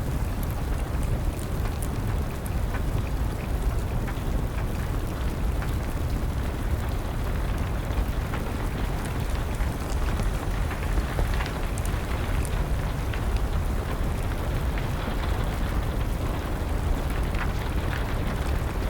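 Wood fire crackling, with scattered small pops, over steady rain. Underneath runs a constant low rumble.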